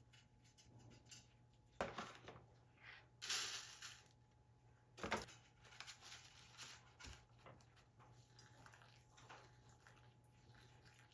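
Quiet room with small handling sounds: a sharp knock about two seconds in, a short rustle a little after three seconds, another knock about five seconds in, and light scattered taps over a faint steady hum.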